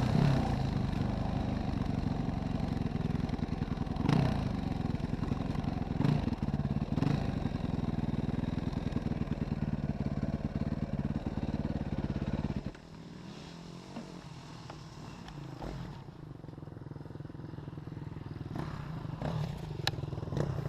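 Yamaha WR450F enduro motorcycle's single-cylinder four-stroke engine running steadily at low revs, with a few knocks and some clatter. About two-thirds of the way through, the sound drops suddenly to a much quieter, steady running note.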